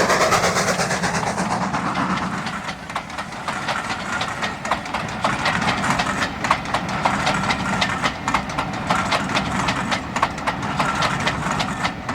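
Steam train passing: a rapid, even beat fades away over the first two seconds. Then the carriage wheels click irregularly over the rail joints, over a steady low rumble.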